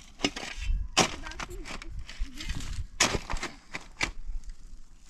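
Dry wood cracking and snapping: a handful of sharp cracks spread across a few seconds, as sticks are broken up.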